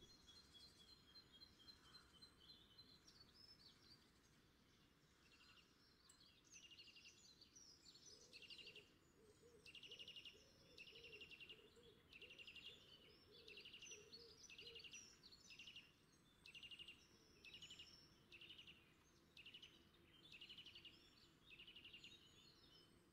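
Near silence, with a small bird calling faintly in the distance: a run of short trilled notes, about one a second.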